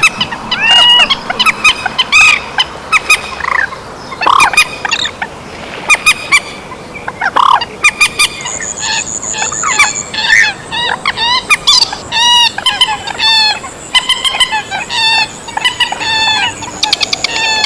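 Trích ré bird calls: short, arched calls repeated rapidly and densely, as a flock call. From about halfway a steady high thin whine runs under them.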